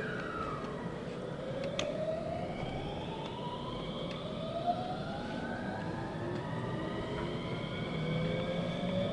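Electric traction motors and inverter of a JR 521-series electric train, heard from inside the car, whining in several tones that climb steadily in pitch as the train picks up speed.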